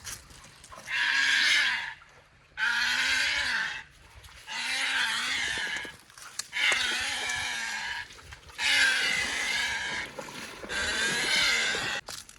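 A large bird giving a run of six harsh, rasping screeches, each one to two seconds long, about every two seconds.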